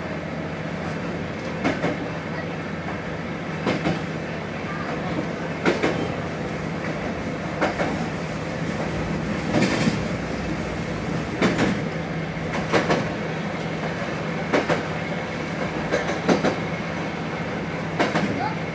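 Diesel railcar running along jointed track: a steady engine and running drone, with pairs of wheel clacks over the rail joints about every two seconds.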